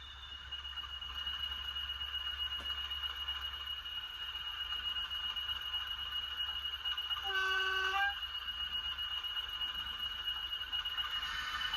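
DCC sound-fitted OO gauge model locomotive running, with a steady whine and hum, and one short horn blast from its sound decoder about seven seconds in.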